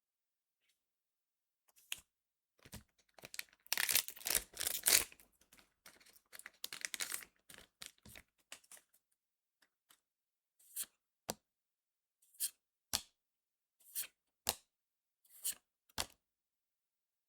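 A foil booster pack of trading cards torn open, a crinkly rip lasting about four seconds, followed by eight short sharp snaps in four pairs as the cards are handled.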